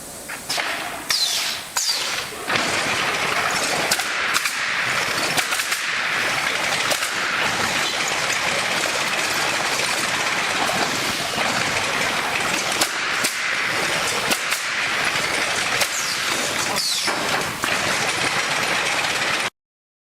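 Automatic pallet nailing machine running: a dense mechanical clatter of rapid sharp strikes over a steady noisy hiss, cutting off suddenly near the end.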